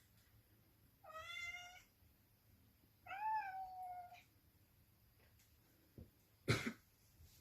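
Domestic cat meowing twice, two short calls about two seconds apart, the second rising then falling in pitch. A sharp knock follows near the end.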